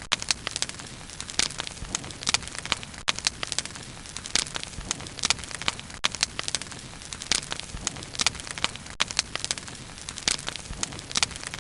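Wood bonfire crackling and popping: irregular sharp snaps, several a second, over a steady soft hiss of burning.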